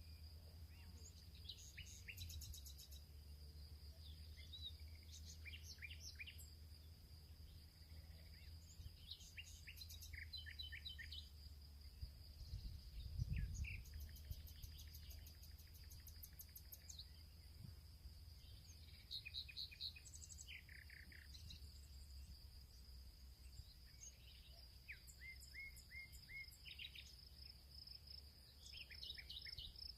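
Field birds chirping and calling in short repeated phrases over a steady high insect drone. There is a brief low rumble near the middle.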